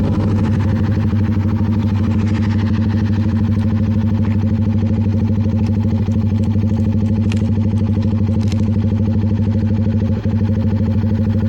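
CFMoto 300NK's single-cylinder engine running at a steady speed, a constant hum that holds one pitch with no revving.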